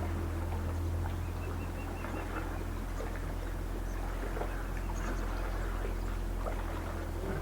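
Lakeside ambience: small birds chirping, with a run of about five quick, evenly spaced notes a second or so in and scattered short high calls, over a steady low hum.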